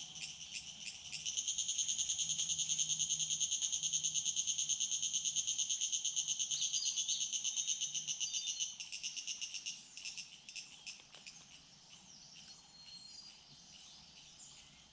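An insect calling in a fast pulsing trill, several pulses a second. It grows louder about a second in and drops away after about nine seconds, leaving a faint insect background with a few soft bird chirps.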